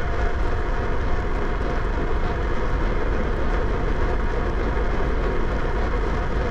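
Steady wind rush and rolling noise picked up while riding a bicycle, heaviest in the low end, as wind buffets the microphone.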